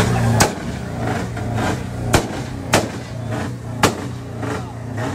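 A car engine running low and steady close by, with four sharp pops scattered through the first four seconds.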